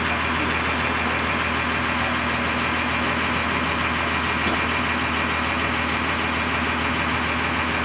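Cummins ISC inline-six diesel engine of a 2002 Blue Bird CS transit bus running steadily, with no revving or gear change.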